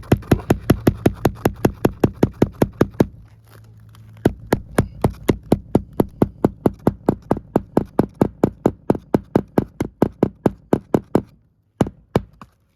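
Hammer rapidly tapping roofing nails into asphalt shingles, about five or six light, even strikes a second. The run pauses about three seconds in, resumes, and ends with a few last taps near the end.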